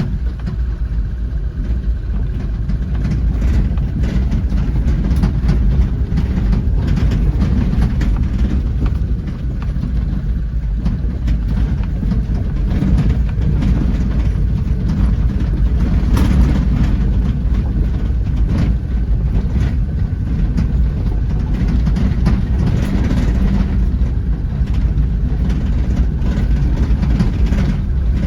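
A steady heavy low rumble, with scattered sharp crackles of burning fatwood in a fire pit.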